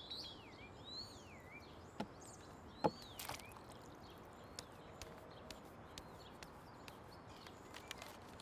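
Faint bird chirps: a few quick rising and falling calls in the first second and a half and again about three seconds in. A scattering of light clicks and knocks runs through it, the sharpest about three seconds in.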